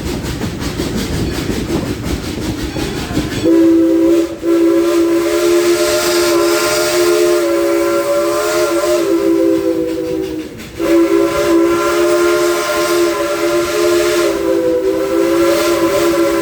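Chime steam whistle of a 1943 Baldwin narrow-gauge Mikado steam locomotive, blowing two long blasts of several tones together, each about six to seven seconds, with a brief break early in the first. Before the first blast, the rumble and clatter of the train running on the track.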